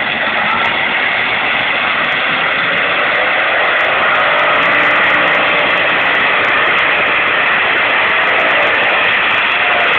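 A pulling vehicle's engine running hard and loud, a continuous heavy drone whose pitch wavers slightly in the middle of the stretch.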